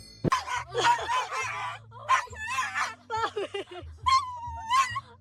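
A dog whining in a run of short, high calls that waver up and down in pitch, with brief gaps between them.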